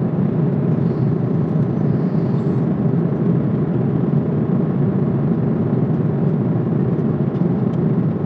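Steady low rumble of an airliner cabin in flight: engine and airflow noise, even throughout.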